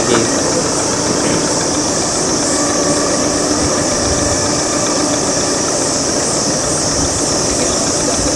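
An engine running steadily under a constant high insect drone.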